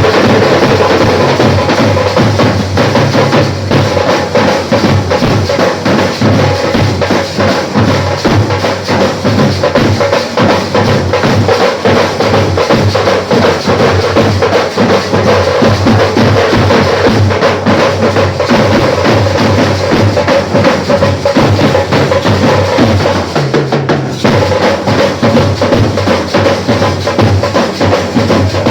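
A live band playing loud music driven by heavy, fast drumming, with a sustained melody line over the beat.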